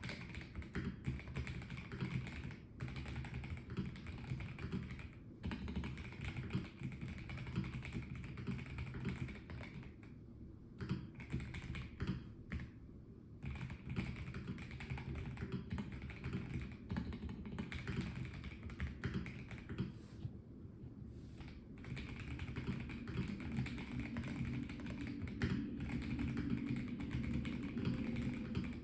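Typing on a Melgeek Mojo84 plastic-case mechanical keyboard: a steady, irregular patter of keystrokes, broken by a few short pauses.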